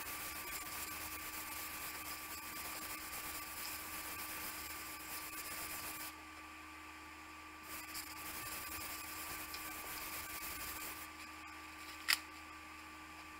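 Sandpaper on a flat sanding block rubbing across a rusty steel saw blade: a faint, steady scratchy hiss that stops briefly about six seconds in and again near the end, with one sharp click shortly before the end. A low electrical hum runs underneath.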